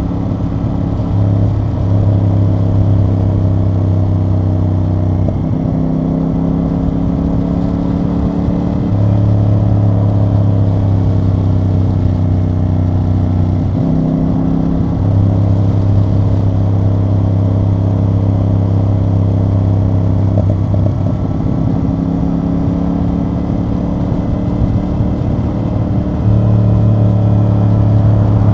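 CFMoto CL-C 450 motorcycle's parallel-twin engine and exhaust running under way. The engine note holds steady, then changes pitch every few seconds as the throttle and gears change.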